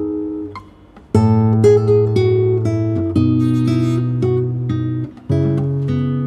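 Solo acoustic guitar playing a slow piece, plucked chords ringing and fading. The sound dies almost away just before a second in and again about five seconds in, each time followed by a freshly struck chord.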